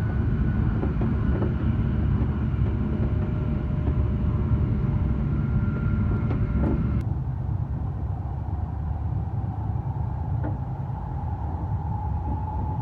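Cabin noise of an E7-series Shinkansen running at speed: a steady low rumble. The higher hiss drops away about halfway through, after which a faint tone slowly rises in pitch.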